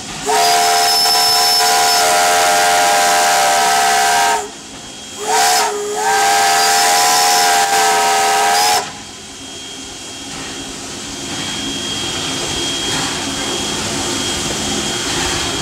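Steam locomotive's chime whistle blowing several tones together: a long blast, a short one about five seconds in, then another long blast that stops about nine seconds in. This is the whistle signal for a grade crossing. After it the locomotive runs on with a steady hiss.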